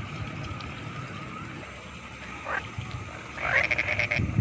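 Frogs calling in a flooded rice paddy: faint calls at first, then a loud run of rapid croaking pulses about three and a half seconds in, over a low steady rumble.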